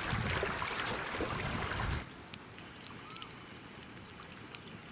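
Wind and water rushing on the microphone, cutting off abruptly about two seconds in. A much quieter background follows, with faint sharp clicks and a couple of short bird calls.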